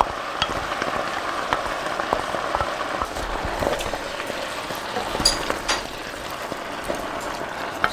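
Vegetables frying and sizzling steadily in a hot pot as chopped tomatoes are poured over them and stirred in with a wooden spatula, with a few light clicks from the spatula a little past the middle.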